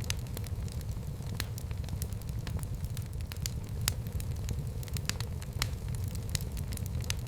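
Fire burning in a fireplace, crackling, with irregular sharp pops over a steady low rumble.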